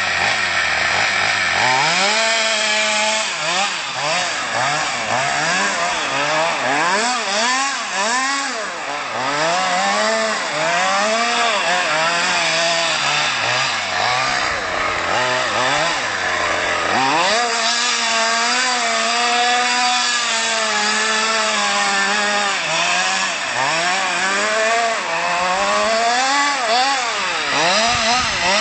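Petrol two-stroke engine of a radio-controlled FG Stadium Truck with a Jetpro tuned exhaust, revving up and down over and over as it is driven. The pitch rises and falls about once a second, with a few longer held revs.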